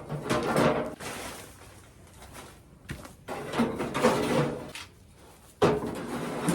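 Objects being moved and handled, with scraping and clattering in three bursts, each starting suddenly and lasting a second or two.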